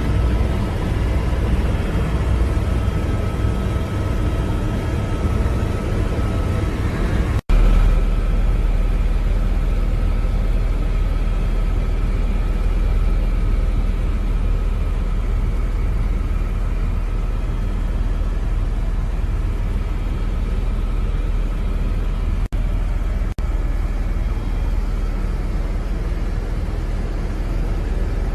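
Helicopter engine and rotor noise, a loud steady drone with a faint high whine over it, broken by short dropouts about seven seconds in and again near the end.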